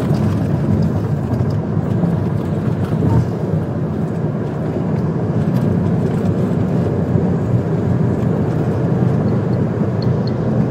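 Steady road and engine noise of a police patrol car driving, heard inside the car through the dash camera's microphone.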